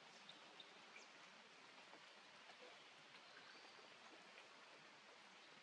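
Faint steady hiss of rain, with a few faint, short, high chirps.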